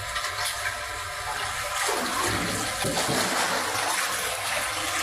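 Rushing, splashing water, growing louder about two seconds in.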